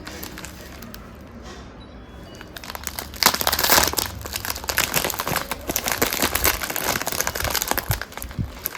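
Plastic snack packet crinkling as it is handled. It is light for about the first three seconds, then dense and loud for the rest.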